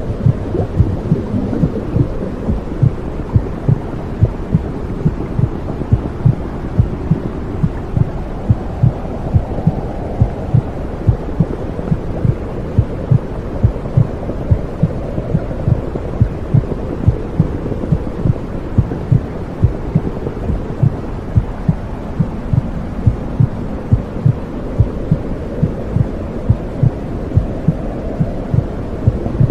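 Womb sound for soothing babies: a steady, muffled heartbeat thumping evenly over a low, continuous whooshing rush.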